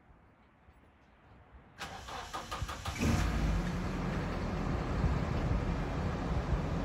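Nissan 240SX's four-cylinder engine being started: the starter cranks for about a second, then the engine catches about three seconds in and settles into a steady idle.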